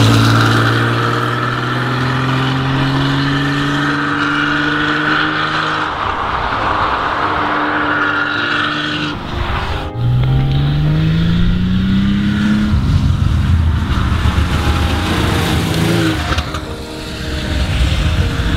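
Porsche 911 3.0 SC's air-cooled flat-six running under way, its note holding and easing slightly lower for several seconds. After a sudden cut about halfway through, the engine pulls up through the revs for about three seconds, then carries on at a steady, rougher rumble.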